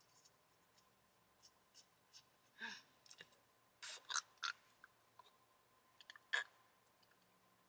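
Faint scattered clicks and small taps from handling a melted lip balm and its cap, with a few sharper ticks in the middle.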